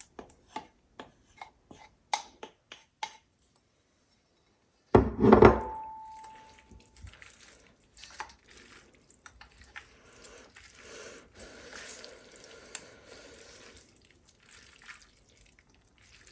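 Kitchen utensils working a bowl of pasta: a quick run of light taps and clicks as artichoke hearts go in, then about five seconds in a loud clank with a short ringing note, followed by soft scraping and rustling as the pasta is stirred and tossed.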